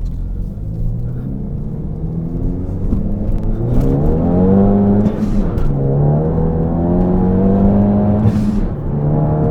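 Ford Focus ST's 2.0-litre turbocharged four-cylinder, through an AWE Touring resonated cat-back exhaust, heard from inside the cabin while accelerating through the gears. The engine note climbs, drops sharply at an upshift about five seconds in, climbs again and drops at a second shift near the end, with a short hiss at each shift.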